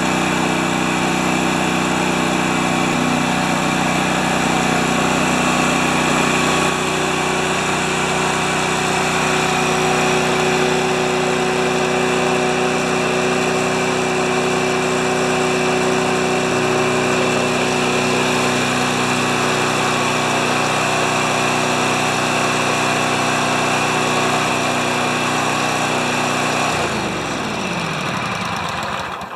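Snowblower's small gasoline engine running steadily, then shut off near the end: its pitch falls as it winds down and it stops.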